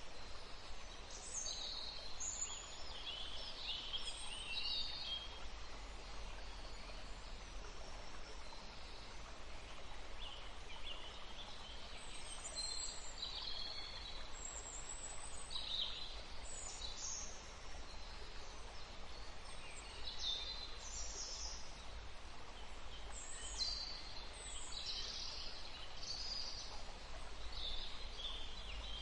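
Several birds chirping and singing in short, high, scattered phrases over a steady background hiss.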